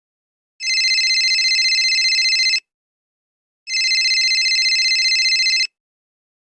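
Telephone ringing: two rings of about two seconds each with a fast flutter, about a second apart.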